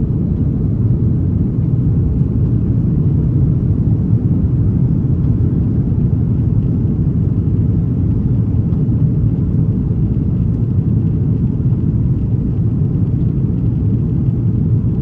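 Airbus A330-200 cabin noise: a steady low rumble of the jet engines and airflow heard from inside the cabin.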